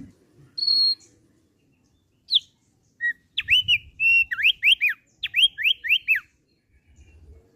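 Thick-billed white-eye (opior) singing: a short high whistle, then a quick run of about ten clear whistled notes, each sweeping up and then down in pitch.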